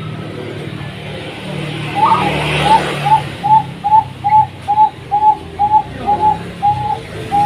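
Zebra dove (perkutut) singing: a quick run of about a dozen short coos, roughly two a second, ending on a longer drawn-out note. A low traffic rumble runs underneath.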